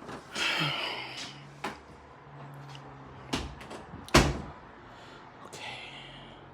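A door being handled: a brief swishing scrape near the start, then two sharp knocks about a second apart. The second knock, about four seconds in, is the loudest, and a short swish follows near the end.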